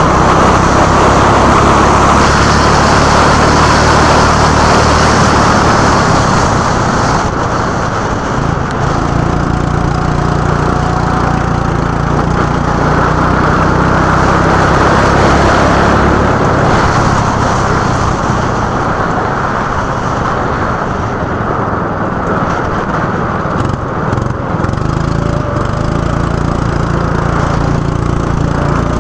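Small go-kart engine running continuously, its note rising and falling as the revs change through the lap, with rattling noise from the kart.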